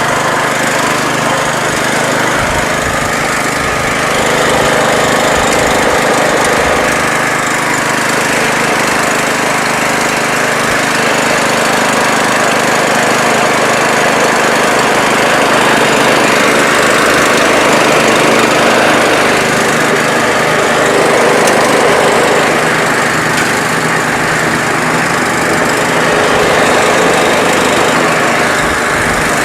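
Lawn tractor's small gasoline engine running steadily, its loudness swelling and easing slightly every few seconds.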